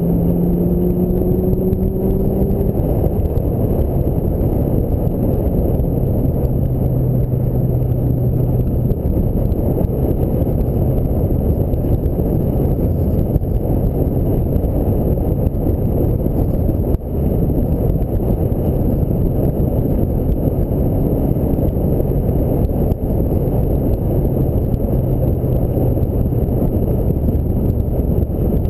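Ford Mustang SVT Cobra driving on the road: the engine running under a steady, heavy rush of wind and road noise, its pitch rising a little in the first couple of seconds and then holding steady.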